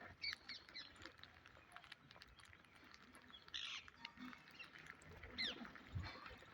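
A parrot making faint, scattered chirps and short squeaky calls, with a brief scratchy rasp about three and a half seconds in.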